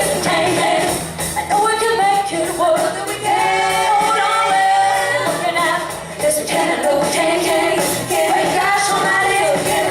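Live band playing with a woman singing lead, including a long held note about four seconds in.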